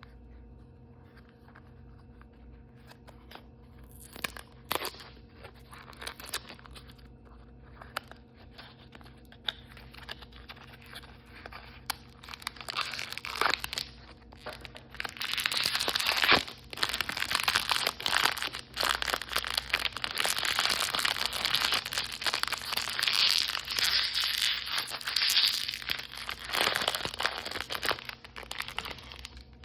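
Crinkly plastic toy packaging being handled and torn open. A few scattered taps and rustles give way, about halfway through, to continuous loud crinkling and tearing.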